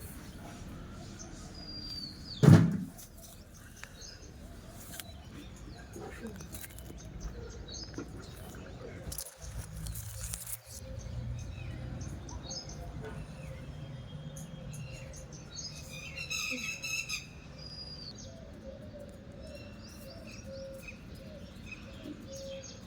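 Birds chirping and calling with short, scattered chirps, and a brief burst of rapid repeated notes about two-thirds of the way through. A loud thump comes about two and a half seconds in.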